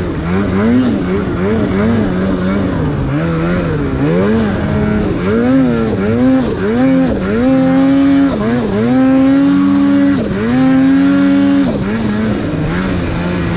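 Snowmobile two-stroke engine being ridden hard, its revs rising and falling again and again with the throttle, twice held steady at high revs for a second or two in the second half.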